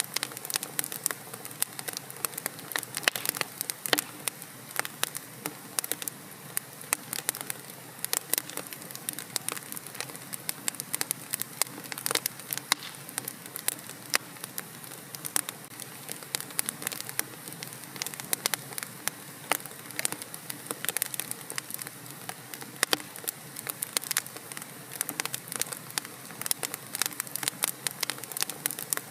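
Wood fire burning in a fireplace, crackling and popping with dense irregular snaps over a steady low hiss.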